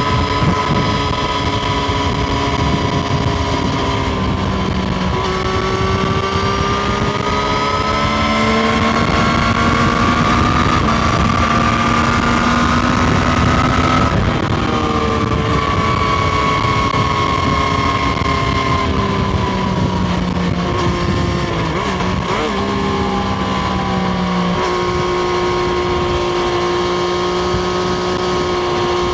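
Triumph Street Triple RS's 765 cc inline three-cylinder engine running under way. Its note climbs slowly for several seconds, drops sharply about halfway through, eases lower, then holds steady near the end.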